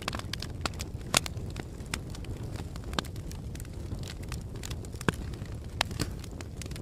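Fire crackling: a steady low rush with sharp pops at irregular intervals, the loudest about a second in.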